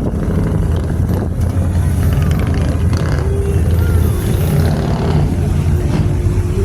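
Car engines running at low revs, a steady low drone, with voices mixed in.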